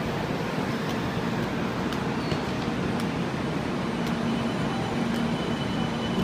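Steady rumble and hum of a Shinkansen bullet train alongside a station platform, with a few faint clicks.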